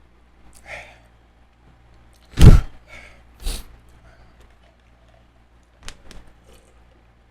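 A few separate short sounds: a loud, sudden thump about two and a half seconds in, a softer one a second later, and a few light clicks near the end.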